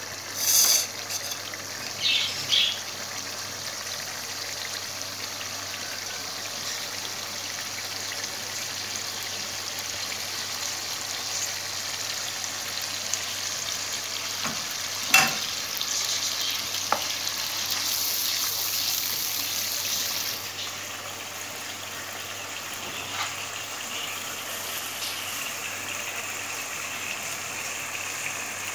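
Masala paste sizzling steadily in oil in a nonstick kadai as it is fried down (bhuna). A few brief sharp knocks sound over it, the loudest about halfway.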